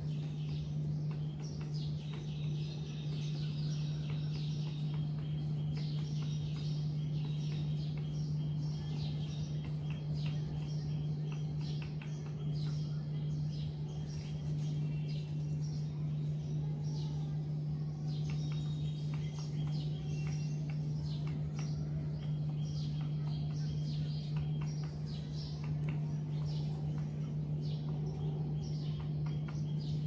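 Birds chirping and twittering again and again over a steady low hum.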